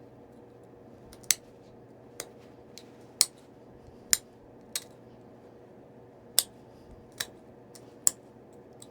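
Eight sharp, irregularly spaced clicks as flakes snap off a Tallahatta quartzite point while its stem is being knapped.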